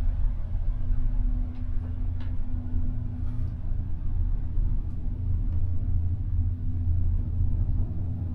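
Gondola lift machinery running: a steady low rumble with a constant hum, and a few faint clicks.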